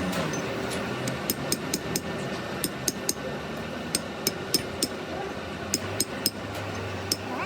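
Light, irregular metal-on-metal taps and clinks, often two or three in quick succession, each with a brief high ring, over a steady low workshop hum.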